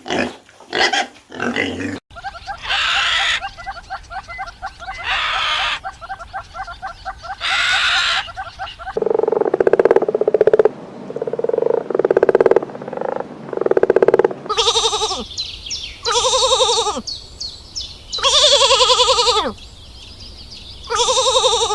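Farm animal calls in a run of short clips, one kind after another: first rapid pulsing calls, then repeated pitched calls, some falling away at the end.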